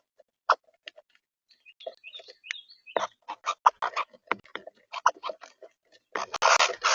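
Small birds at a feeder: many sharp pecking taps and clicks against the feeder, a few short high chirps about two seconds in, and a dense rustling burst near the end.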